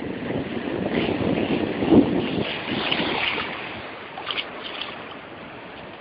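Wind buffeting the microphone in uneven gusts over the wash of the sea.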